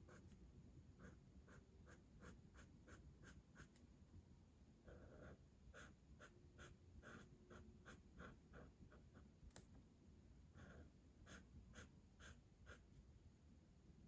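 Faint scratching of a colouring tool stroking back and forth on paper. It comes in runs of quick strokes, about three a second, with short pauses between the runs.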